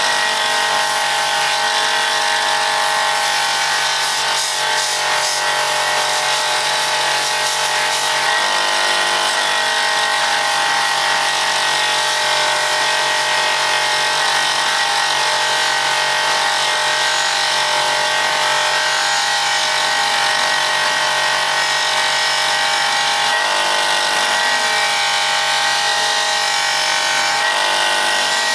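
Bench buffing machine running steadily with a steel hatchet head held against the wheel, stripping light surface rust. A steady motor whine under a loud hiss of metal on the wheel, the tone shifting about eight seconds in and again near the end as the work is moved.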